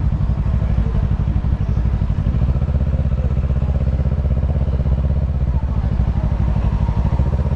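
Kawasaki Ninja 650's parallel-twin engine running steadily at low revs, with an even pulsing throb that neither rises nor falls.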